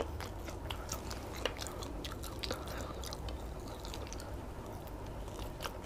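Close-up chewing of chicken satay: irregular small wet clicks and squelches of the mouth working the meat.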